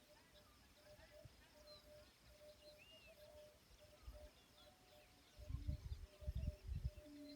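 Faint outdoor nature ambience with scattered, distant bird chirps and a soft repeating call. From about five and a half seconds in, a series of low thumps and rumbles comes in, louder than the rest.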